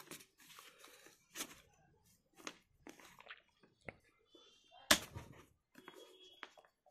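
Scattered clicks and scraping of plastic as a pry tool works a Bluetooth speaker's top cover loose, with one sharp snap about five seconds in.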